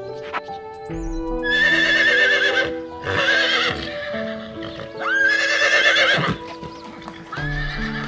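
A horse whinnying about four times, each a long quavering call, over calm background music with steady held notes.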